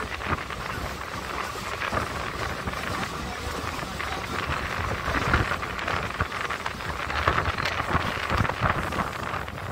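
ICF-built electric multiple unit (EMU) suburban local train running, heard from aboard: a steady rumble with many irregular clatters and rattles from the wheels and coach, and wind rushing past.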